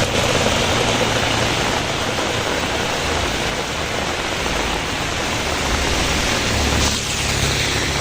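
Heavy rain falling in a steady hiss. A faint low hum comes in near the end.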